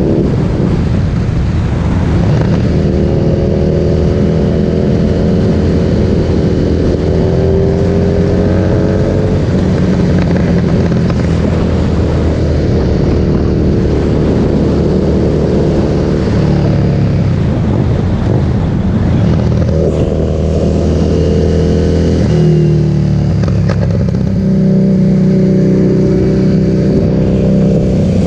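Harley-Davidson Street Rod 750's V-twin running loud through an aftermarket Vance & Hines exhaust. The engine note rises slowly and falls as the throttle is worked, with a couple of sudden drops in pitch.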